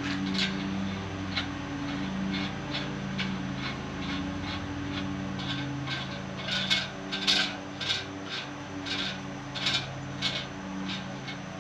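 Irregular short scraping and rubbing strokes from hands working parts during assembly, louder and more frequent in the second half, over a steady low hum.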